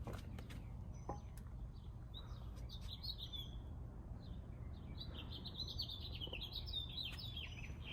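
Small songbirds chirping and twittering in quick, high trills, busiest in the second half, over a steady low background rumble.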